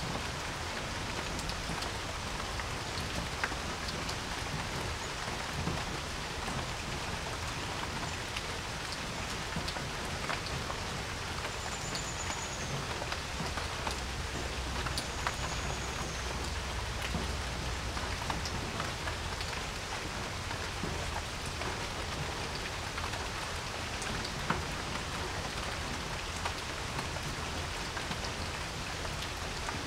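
Steady rain falling on a porch, an even hiss with many scattered sharper drop ticks.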